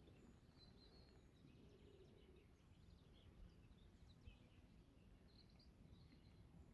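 Near silence with faint songbirds: scattered short chirps and snatches of song, over a low steady background hush.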